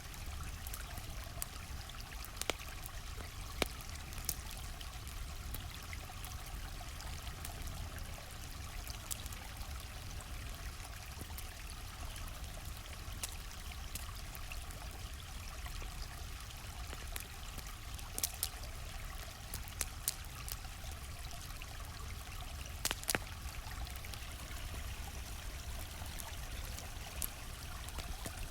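A stream flowing steadily, with the irregular sharp pops and crackles of a campfire scattered over it.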